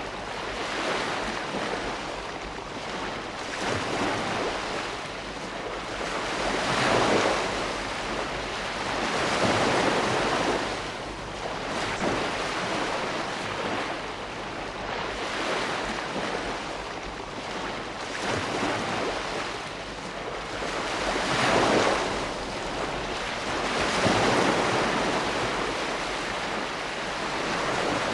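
Ocean waves breaking and washing on the shore, a continuous surf hiss that swells and falls as each wave comes in, several times over.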